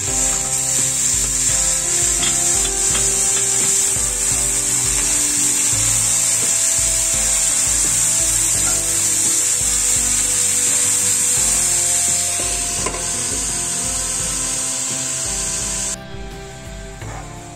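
Sliced mushrooms frying with onions and tomatoes in a hot cast-iron pan: a steady, loud, high sizzle while a wooden spatula stirs them. Near the end the sizzle drops to a quieter, muffled hiss under a glass lid.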